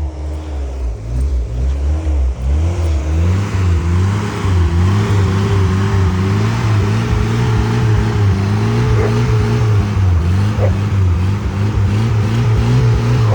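Mazda B2000 pickup's four-cylinder engine revving hard with its drive wheels spinning while stuck in snow. The revs rise and fall about once a second as the driver rocks it back and forth, then are held high from about four seconds in.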